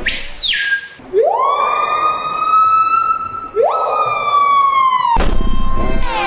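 Two long siren-like wails, each rising quickly in pitch and then held, the second sagging slowly. A brief falling whistle comes just before them, and music with a bass line cuts back in about five seconds in.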